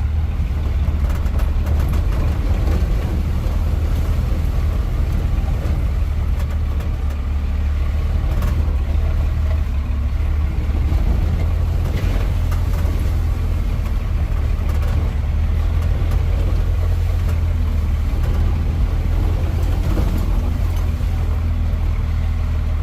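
Old square-body pickup truck crawling over a rough, rutted off-road trail, heard from inside the cab: a steady low engine and drivetrain rumble with scattered knocks and rattles as the truck bounces over bumps.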